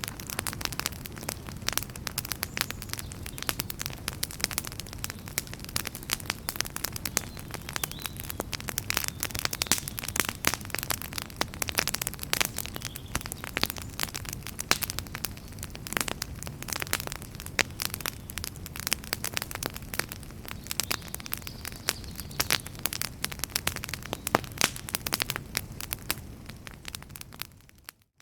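Wood fire in a fireplace crackling steadily, with many sharp pops and snaps of burning logs over the low rumble of the flames. The sound dips out briefly right at the end.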